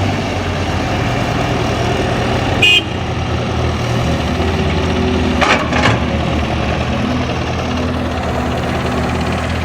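Diesel engines of a heavy machine running steadily at a low rumble. About a third of the way in there is a brief high horn toot, and a little past halfway two short knocks sound.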